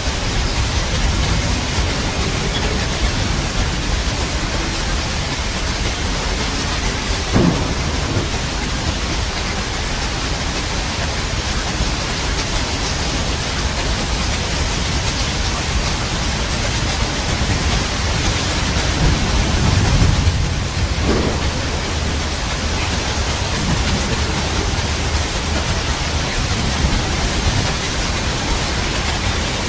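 Steady rain falling with thunder: a short sharp crack about a quarter of the way in, and a low rumble that swells to a peak a little past the middle.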